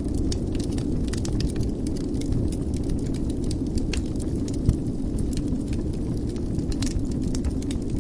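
Wood fire burning in a fireplace: a steady low rumble with frequent sharp crackles and pops, and one louder pop about halfway through.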